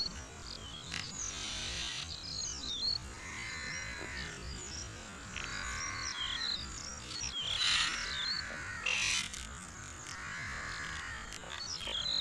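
Small birds chirping and twittering repeatedly in short, quick phrases, over a low rumble on the microphone.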